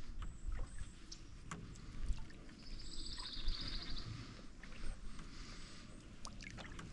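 Canoe being paddled: water swishing off the paddle, with scattered light knocks and creaks from the hull. Near the middle, a bird gives a rapid chattering call lasting about a second and a half.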